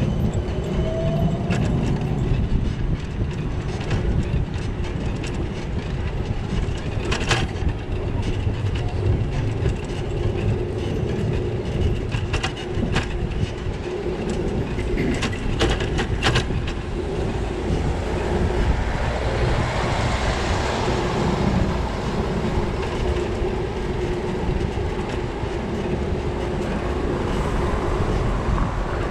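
Steady rumble and rattle of a bicycle ride picked up by a bike-mounted GoPro, with a few sharp clicks and a hiss that swells and fades about two-thirds of the way through.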